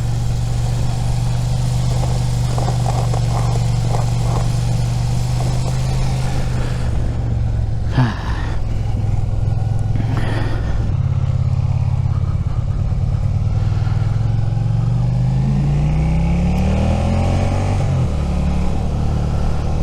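Suzuki SV650's V-twin engine running at a steady pitch through a lean, then dropping back and rising again as the bike accelerates, with a step down near the end like a gear change. A single sharp click about eight seconds in.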